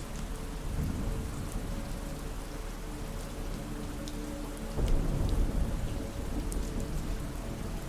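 Steady rain falling, with a low rumble of thunder that swells about five seconds in.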